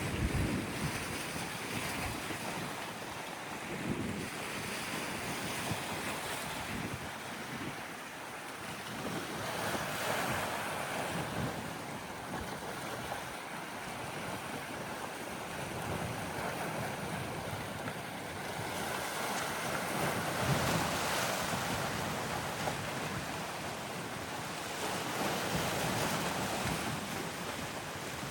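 Red Sea waves washing in and out, swelling and ebbing every few seconds, with wind buffeting the microphone.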